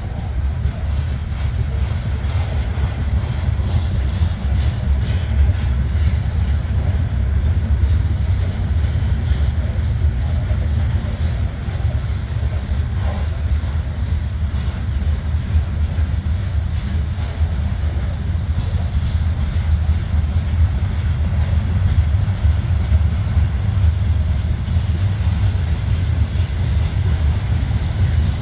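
CN freight train rolling past, its intermodal cars making a steady, heavy rumble of wheels on rail.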